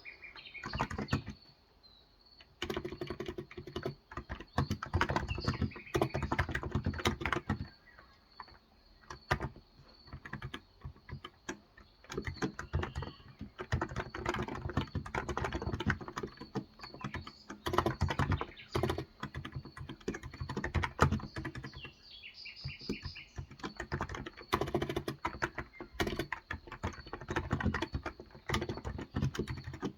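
Typing on a Cox Endeavour tenkeyless keyboard with 35 g electrostatic capacitive switches: runs of rapid keystrokes broken by short pauses, with faint birdsong behind.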